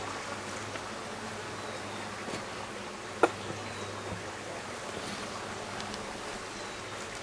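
Honeybees buzzing in a steady low hum around an opened top-bar hive, with one sharp click about three seconds in.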